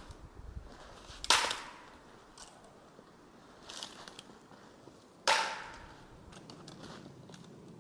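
Two sharp cracks of dry wood about four seconds apart, each ringing out briefly, with a few faint ticks and crunches between.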